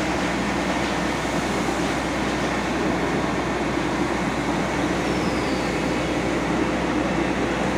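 Heavy fire truck engine running steadily, a constant even mechanical noise with no changes.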